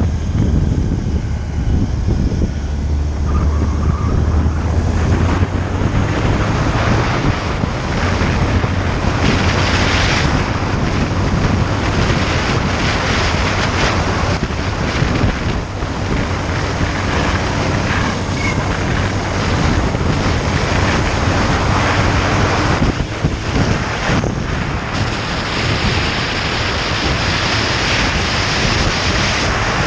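Wind rushing over the microphone on a moving motorcycle, with the engine's low drone underneath that shifts in pitch now and then.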